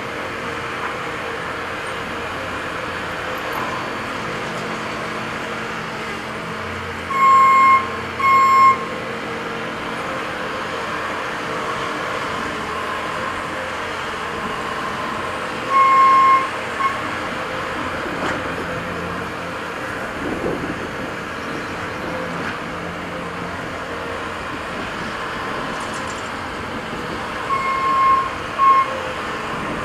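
Diesel engines of heavy earthmoving machines running steadily, with a backup alarm beeping in short pairs three times, about 7, 16 and 28 seconds in, as a machine briefly reverses.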